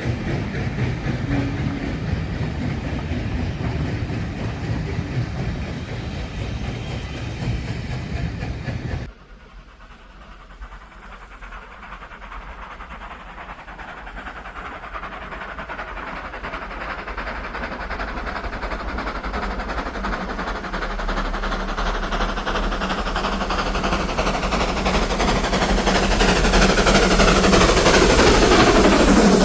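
A steam train running on the line; after a sudden cut, a train approaches, growing steadily louder, and passes close near the end with its pitch falling away.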